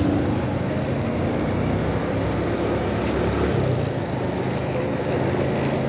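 Motorcycle engine running steadily under way, a continuous engine hum.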